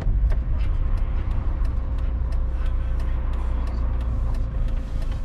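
Steady low engine and road rumble heard from inside a moving vehicle, with a faint steady hum and small clicks and rattles throughout.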